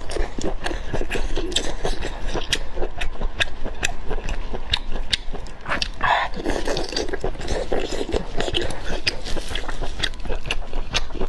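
Close-miked eating: a person biting and chewing food, with many quick, sharp wet clicks and smacks.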